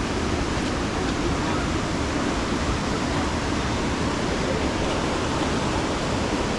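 Steady rush of flowing water: an even hiss with no breaks.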